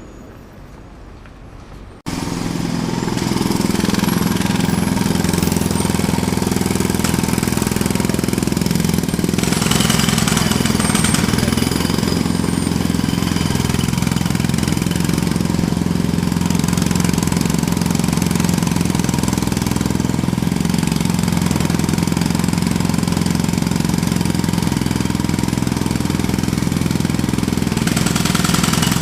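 Jackhammer starting abruptly about two seconds in and then running steadily and loudly, a dense hammering clatter over a low engine-like drone.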